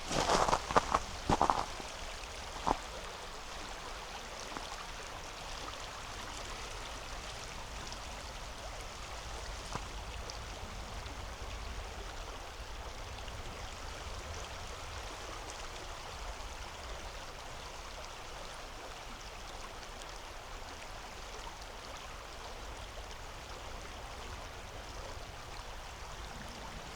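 A river flowing steadily, a constant rushing of running water. Over the first three seconds there are a few loud crunching footsteps on compacted frozen snow, which then stop.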